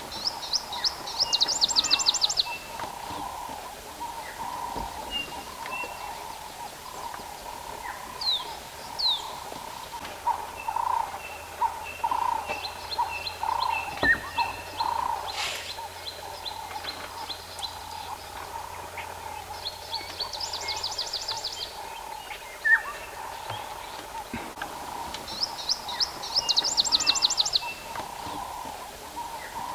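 Small wild birds calling: a fast, high trill of quick notes heard three times, with scattered short chirps between, over a steady background hum.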